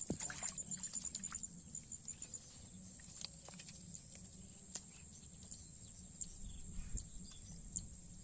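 Outdoor field ambience: a steady, high-pitched insect trill, pulsing at first, with scattered short clicks over a low background hum.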